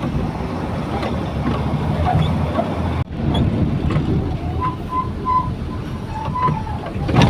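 Truck engine running with a steady low rumble while driving over a rough, rock-strewn mountain road. The sound drops out for an instant about three seconds in.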